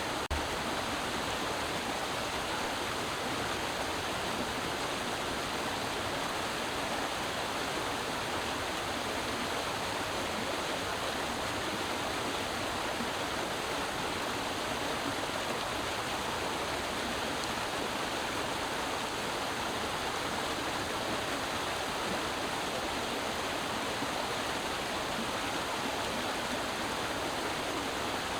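A creek flowing, its water rushing and splashing over rocks in a steady, even wash.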